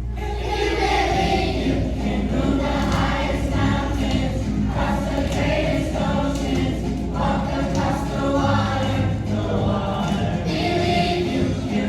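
Children's choir singing a gospel song with accompaniment.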